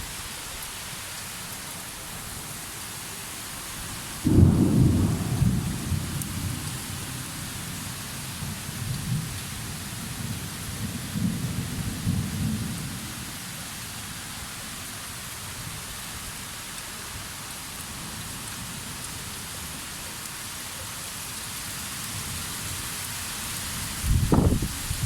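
Steady rain hissing, with a sudden clap of thunder about four seconds in that rumbles on in waves for several seconds, and another thunderclap starting near the end.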